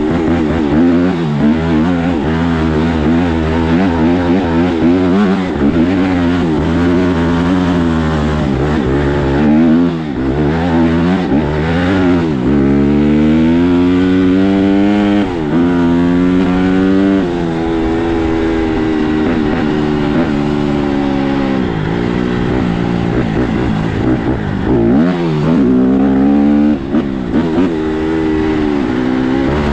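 A 150R dirt bike engine being ridden, revving up and dropping back repeatedly as the throttle opens and closes and the bike shifts through its gears.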